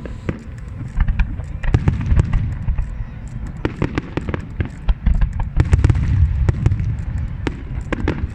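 Fireworks display: many sharp cracks and pops in quick succession over a continuous low rumble of booms, the rumble heaviest a couple of seconds in and again past the middle.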